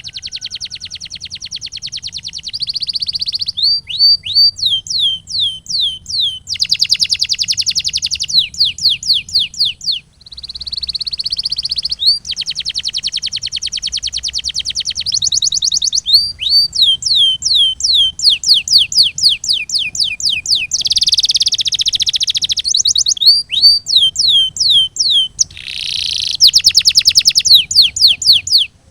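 Domestic canary singing a continuous song: fast rolling trills alternate with runs of high, downward-gliding whistled notes, several a second. There is a brief pause about ten seconds in.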